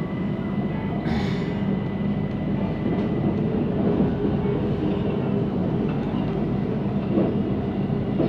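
Cabin sound of a Siemens Inspiro metro train running between stations: a steady rolling rumble of wheels on rail, which the rider calls a weird rolling noise. A thin high whine fades out in the first few seconds, and there is a brief hiss about a second in.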